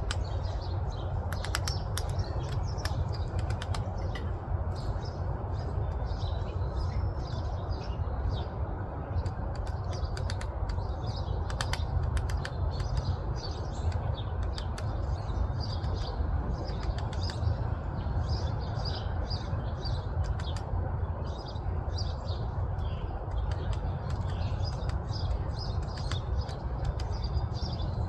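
Small birds chirping in short, repeated notes over a steady low rumble, with a few sharp ticks near the start and again about twelve seconds in.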